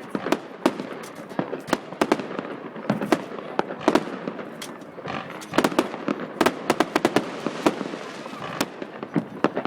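Fireworks going off in a long run of sharp, irregular bangs and crackles, with a denser, louder cluster of reports about six seconds in.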